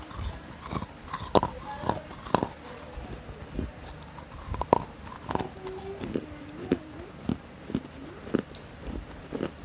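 Close-up biting and chewing of a hard, dark stick-shaped snack: irregular sharp crisp snaps and crunches, a few of them much louder than the rest.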